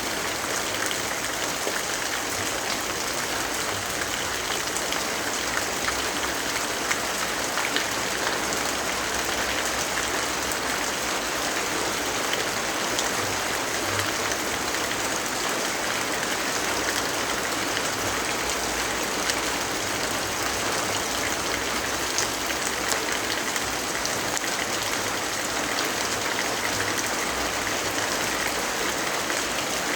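Steady rainfall: an even hiss of rain with scattered light drop ticks.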